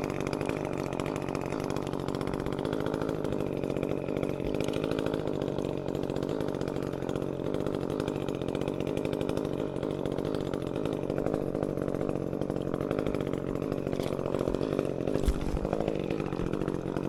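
Echo CS-355T top-handle two-stroke chainsaw idling steadily, with one brief knock about fifteen seconds in.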